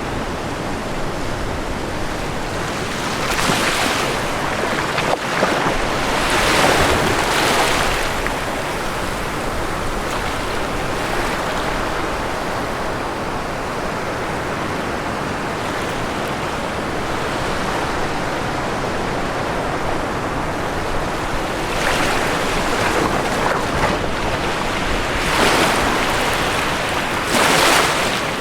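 Ocean waves breaking on a shore, with a steady wash of surf between breakers and several louder surges, two near the start and three in the last few seconds.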